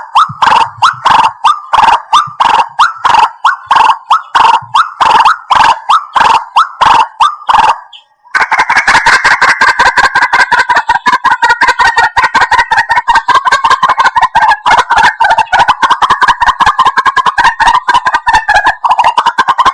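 White-breasted waterhen calls in a bird-trapping playback recording: a run of loud repeated notes, two or three a second, then after a brief break about eight seconds in, a much faster, dense chattering series.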